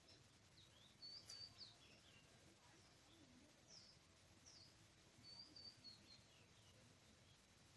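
Faint bird calls: short, high whistled chirps and slurred notes in scattered groups, about a second in and again around the middle, over a quiet background hiss.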